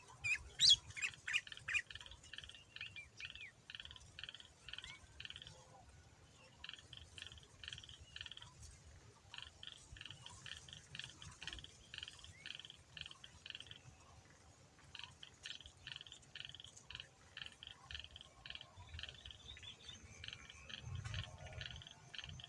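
Sooty-headed bulbul (kutilang) singing: a few louder, clear notes near the start, then long runs of rapid, evenly repeated chirps in phrases broken by short pauses.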